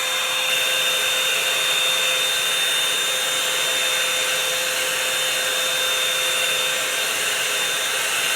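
Revlon One-Step hot-air dryer brush running steadily: a rush of blown air with a constant high whine from its motor.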